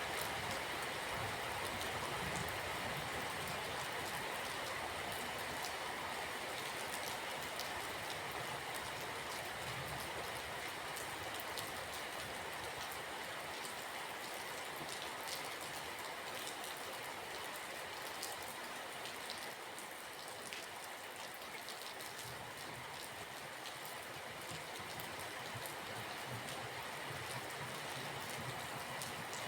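Steady rainfall: an even hiss of rain with many small drops pattering, and a low rumble that swells and fades at times.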